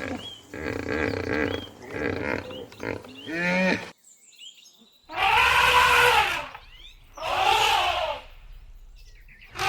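Large animal calling: a run of short pitched calls that rise and fall, then, after an abrupt cut, three loud calls of about a second each, about two seconds apart, the last starting near the end.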